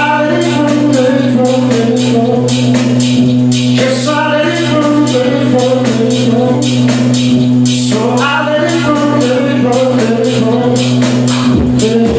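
Live band playing: a singer's phrases come in about every four seconds over a long held bass note and an even cymbal or tambourine beat.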